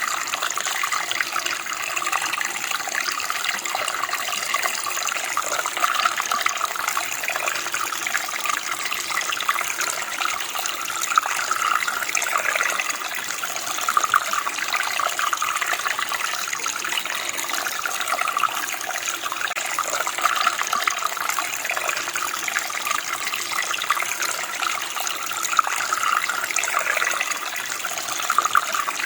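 Running water of a shallow stream flowing and splashing steadily, with a bright, even rush.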